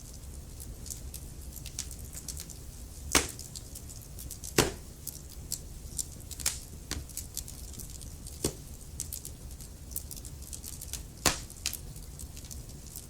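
Wood fire crackling in a fireplace: many small ticks and four sharp, louder pops spread through, over a low steady rumble.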